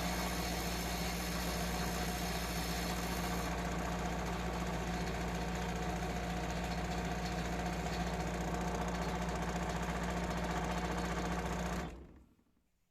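Electric power tool motor running steadily with an even hum, its hiss thinning about three and a half seconds in, then cutting off abruptly near the end.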